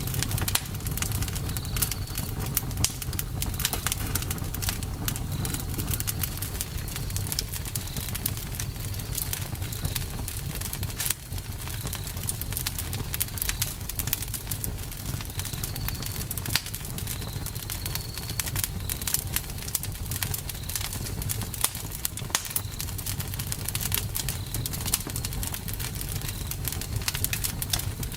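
Campfire burning: dense crackling pops and snaps over a steady low rumble, with short high chirps every second or two.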